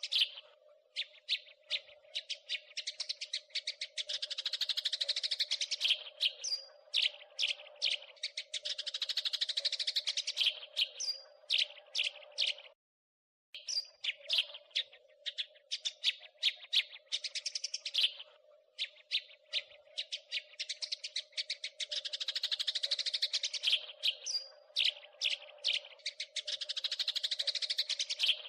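House sparrow chirping and chattering in quick runs of short, sharp chirps, broken by denser bursts of chatter, over a steady low hum. The sound cuts out briefly a little under halfway through, then the same chirping pattern starts again.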